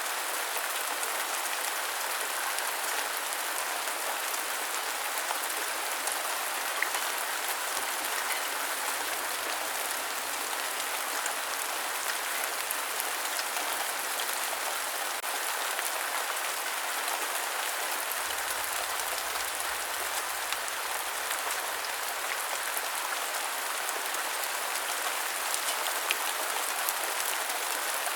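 Steady rain falling and pattering on surfaces, with small drop clicks scattered through it and no change in strength.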